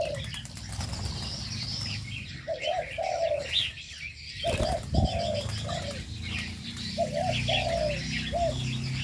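Spotted doves cooing in an aviary, two short phrases of a few low notes each, over continual high chirping from small birds. A low steady hum underneath and a single thump about five seconds in.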